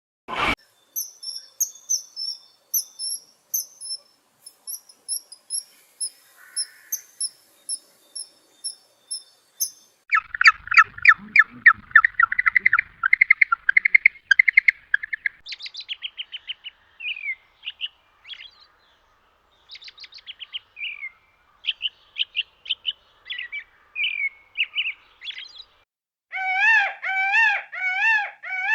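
Birds calling in a series of different calls: a thin, high chirp repeated about twice a second, then a fast rattling chatter about ten seconds in, scattered chirps, and near the end a repeated warbling call with a lower, fuller tone.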